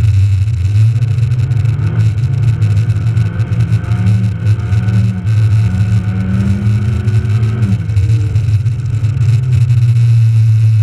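Rally car's engine heard from inside the cabin under a heavy low drone. Its pitch climbs slowly for several seconds, then drops sharply about eight seconds in.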